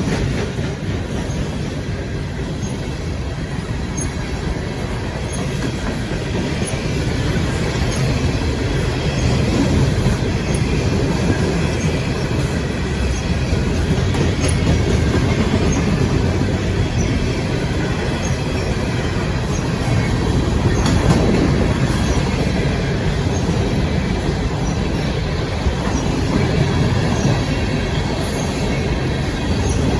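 CSX coal train's cars rolling past, a steady rumble of steel wheels on the rails with faint thin squealing tones above it.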